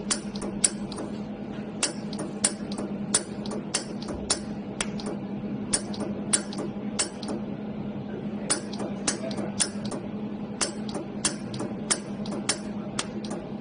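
Laser jewelry welder firing pulses: a run of sharp snapping clicks at irregular intervals, in bunches with short pauses between, over the machine's steady low hum.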